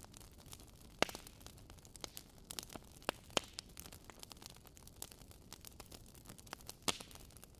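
Wood fire burning in a fireplace, crackling with irregular sharp pops over a soft steady hiss, a few pops louder than the rest.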